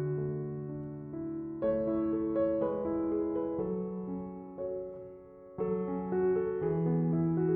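Slow, gentle piano music: sustained chords and single notes struck and left to ring out, with a new phrase coming in about a second and a half in and again near the end.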